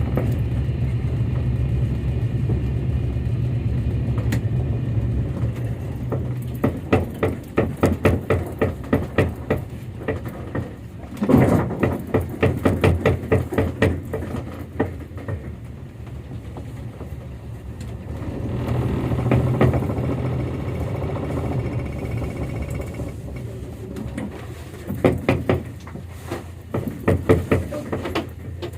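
Motor launch's engine running with a steady low hum, then from about seven seconds in a run of quick, regular knocks that come and go, returning near the end.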